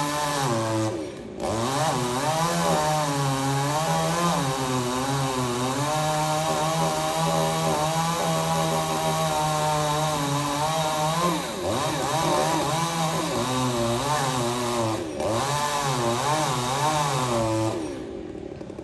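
Chainsaw running under load, its engine pitch wavering and sagging as it cuts, with brief dips in speed. It drops away sharply near the end.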